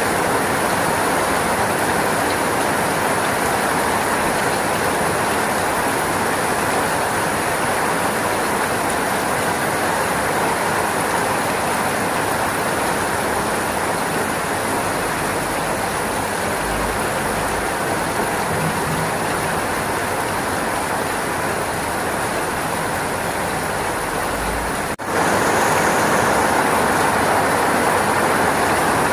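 Rain falling steadily, an even rushing hiss. About 25 seconds in it drops out for an instant and comes back slightly louder.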